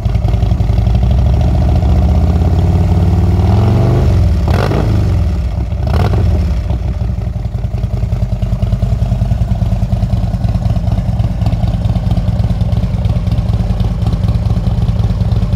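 Harley-Davidson Road King's Screamin' Eagle 120 cubic inch V-twin running through fishtail mufflers: held at raised revs, blipped twice about four and six seconds in, then settling to a loping idle for the rest.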